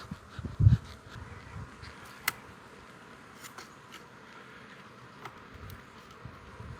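Honeybees buzzing around an open hive as a steady hum, with a low thump in the first second and a few sharp clicks, the clearest about two seconds in.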